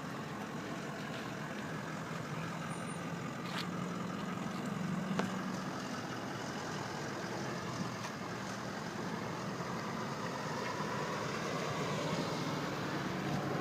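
A motor vehicle engine running steadily, with a low hum.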